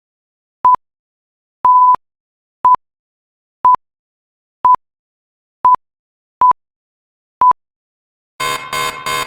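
Quiz countdown timer beeping: short, single-pitched electronic pips about once a second, one of them held a little longer. Near the end a harsher buzzer sound comes in three quick pulses, the kind that marks time running out.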